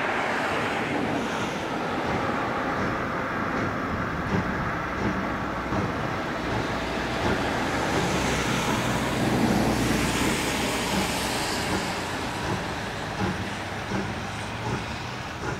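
Locomotive running slowly with its train: a steady rumble and hiss, the low hum and hiss swelling for a few seconds past the middle, with a few short knocks near the end.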